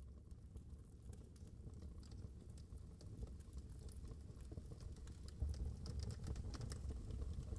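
Wood fire crackling in a fireplace: irregular snaps and pops over a low rumble of the flames, growing steadily louder.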